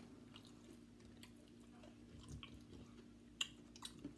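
Quiet chewing of soft pigs in a blanket (hot dogs wrapped in croissant dough), with faint scattered mouth clicks and a sharper click about three and a half seconds in.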